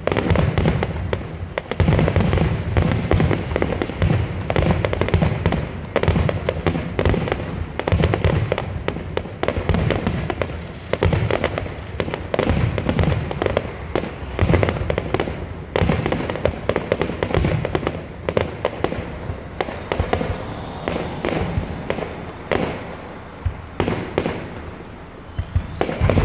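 Aerial fireworks shells bursting one after another in quick succession, deep booms mixed with crackling, with a brief lull near the end and a faint rising whistle.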